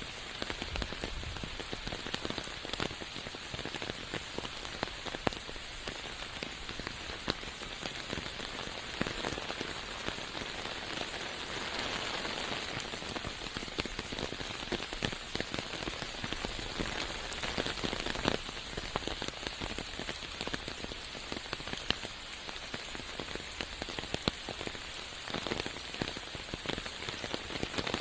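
Steady rain falling in a forest, with many separate drop hits scattered through the hiss.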